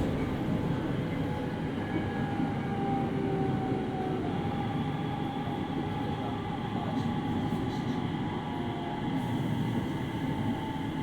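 Interior running sound of a JR East 701 series 5500-subseries electric train: a steady rumble of wheels on rail, with a steady high whine from the traction equipment over it.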